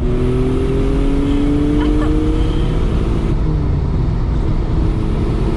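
Mitsubishi 3000GT VR4's twin-turbo V6 under hard acceleration, heard from inside the cabin: the engine note climbs steadily in pitch for about three seconds, then drops back, consistent with an upshift.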